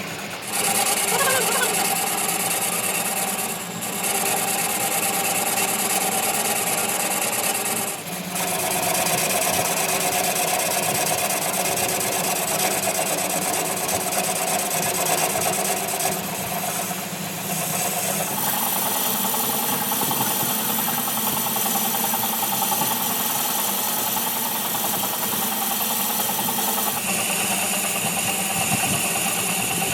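Workshop machinery running steadily, with brief dips about four and eight seconds in and shifts in its pitch twice later on.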